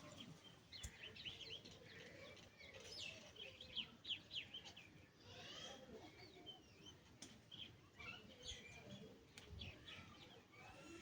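Faint chirping of small birds: many short, quick chirps and downward-sweeping notes that keep up throughout, some overlapping.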